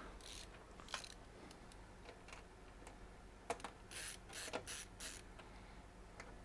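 Faint handling noises of PC parts and case: a light click about a second in, then a cluster of short clicks and rustles between about three and a half and five seconds in.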